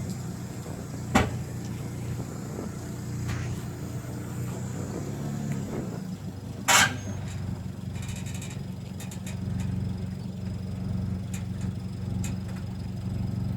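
A vehicle engine running steadily at idle, with a sharp click about a second in and a loud short metallic clank about halfway through.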